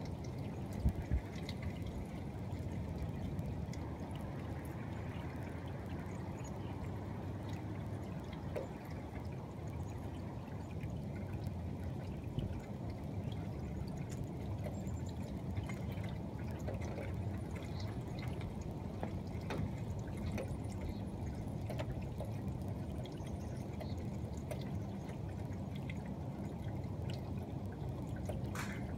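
Heavy rain pouring down steadily, with scattered light ticks of drops throughout.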